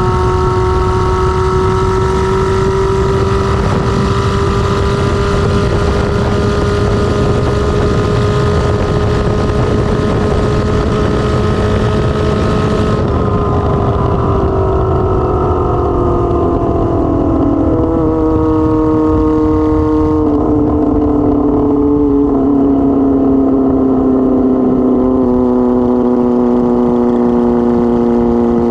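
Kawasaki ZR-7's inline-four engine on the move, unmuffled, loud and holding a steady pitch, then falling in pitch in several steps over the second half as the bike slows. The high wind hiss drops away about halfway through.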